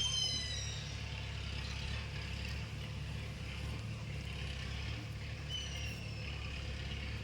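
A steady low engine-like drone, with short high-pitched squeaky calls at the very start and again about five and a half seconds in.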